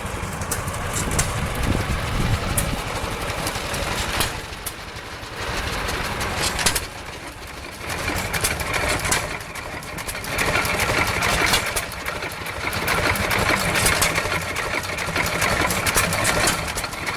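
An engine running steadily at idle, with a rattling mechanical note that grows louder in the second half.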